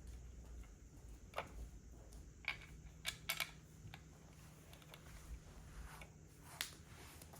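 Plastic Lego bricks clicking and tapping as pieces are handled and pressed together, a handful of separate sharp clicks.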